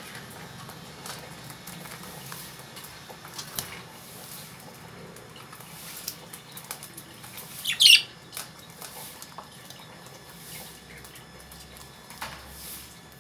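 Caged lovebirds husking and nibbling foxtail millet seeds: a stream of small clicks and scratches, with one loud, sharp squawk about eight seconds in and a fainter call near the end.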